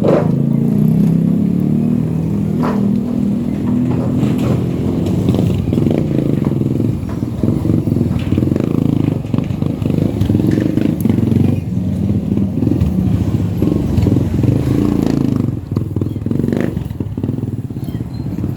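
Motorcycle engine running while riding, its pitch rising and falling with the throttle, with scattered rattles. It eases off and gets quieter about three seconds before the end.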